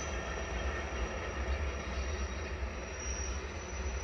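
Glacier Express train, a red electric locomotive hauling its coaches up the mountainside at a distance: a steady rolling rumble of the train, with a thin, steady high tone above it.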